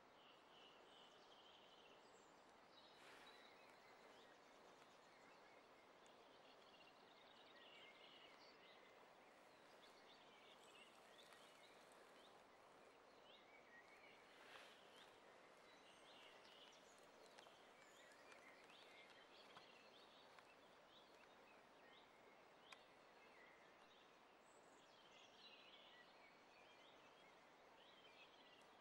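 Near silence: faint outdoor hush with small bird chirps scattered throughout.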